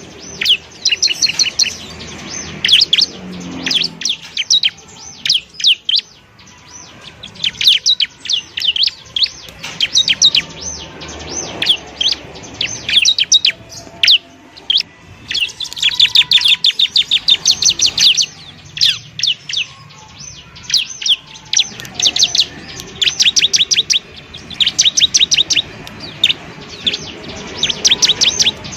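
Bar-winged prinia (ciblek) song: rapid trains of sharp, high chirps in bursts of a second or two, repeated again and again with short pauses between.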